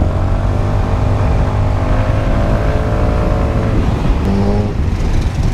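A motor engine running, its note rising slightly and then easing off, over a heavy steady low rumble.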